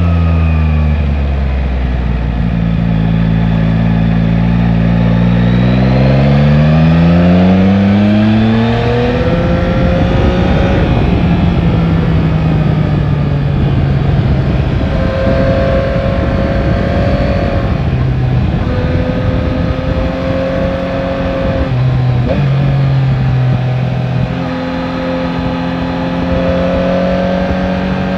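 Yamaha Tracer 9 GT's inline three-cylinder engine pulls up through the revs for several seconds. It then runs at steadier revs with small rises and drops, over a steady rush of wind noise.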